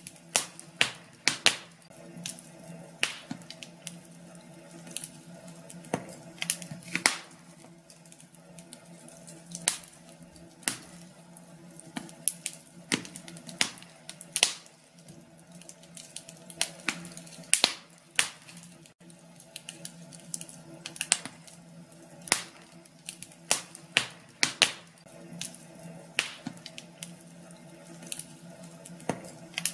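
Wood fire crackling in a fireplace: irregular sharp pops and snaps, a few loud ones standing out, over a faint steady hum.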